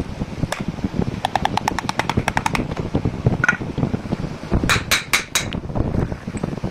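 Metal-on-metal work while a pinion bearing is fitted: a quick run of light ringing clicks, about ten a second, then four sharp strikes in under a second, over a steady workshop rumble.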